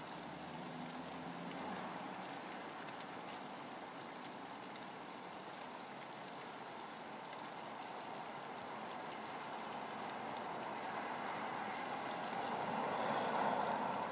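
Steady rain falling, an even hiss that grows louder near the end.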